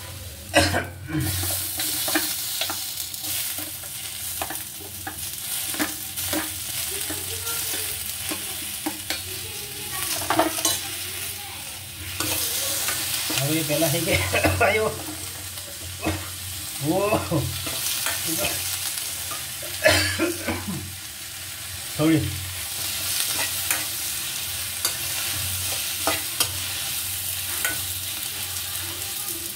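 Onions, garlic and green chillies frying in a little mustard oil in an aluminium kadai, sizzling steadily while a steel spoon stirs and scrapes the pan with many clinks and knocks on the metal; tomato pieces are stirred in partway through. A few short squeaky, wavering sounds cut in now and then.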